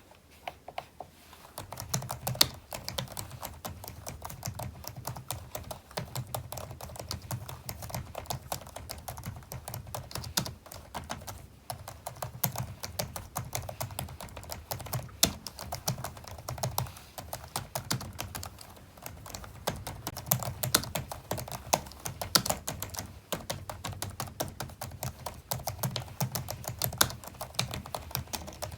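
Computer keyboard being typed on continuously: rapid, irregular key clicks, each with a low thud from the keys bottoming out. The typing starts about a second and a half in and pauses briefly twice.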